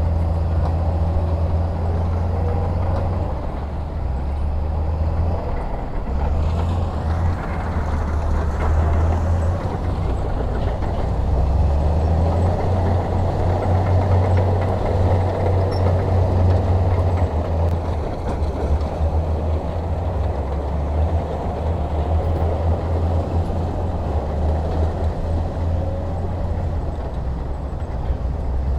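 Heavy diesel engine running steadily with a deep, continuous low drone.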